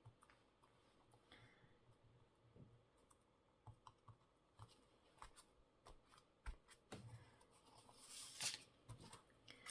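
Very faint handling of paper and craft scraps on a desk: scattered light clicks and taps, with a brief rustle of paper about eight seconds in.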